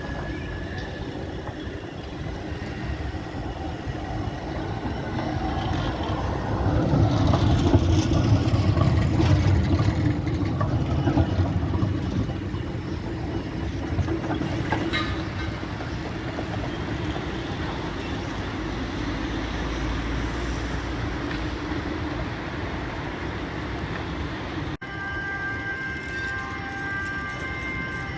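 Tram passing on its rails: a low rumble that swells to its loudest about a quarter to a third of the way in, then settles to a steadier running noise. Near the end an abrupt cut brings a different shot with a steady high whine of several tones.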